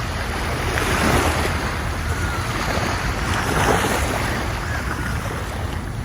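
Ocean surf washing in, swelling louder about a second in and again past the middle, with a steady low rumble of wind on the microphone.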